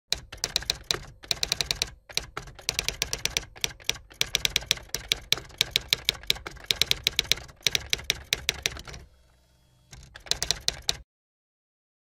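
Typing sound effect laid over text appearing on screen: quick runs of keystroke clicks, several a second, with a short pause near the end before a last run.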